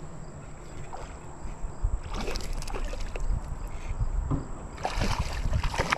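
Water sloshing and splashing against a kayak in irregular bursts, with knocks on the hull, over a steady low rumble.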